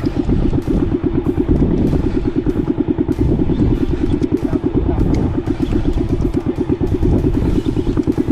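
Boat engine running steadily with a rapid, even pulsing beat.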